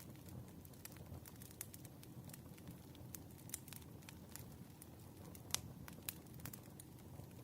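Firewood burning, with faint irregular crackles and pops over a low, steady rumble; one sharper pop about five and a half seconds in.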